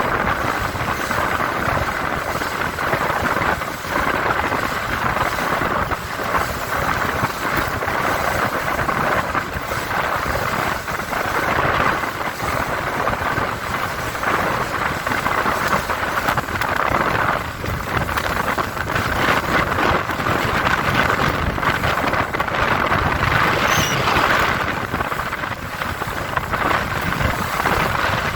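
Four Winns Liberator powerboat running at speed through rough chop, with water rushing past the hull and wind buffeting the microphone; the loudness swells and dips with the waves.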